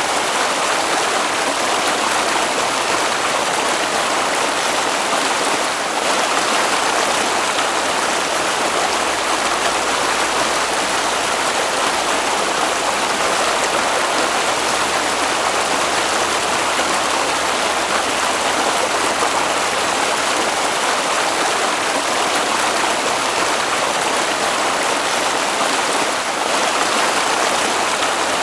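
Water flowing in a stream: a steady, even sound of running water with no breaks.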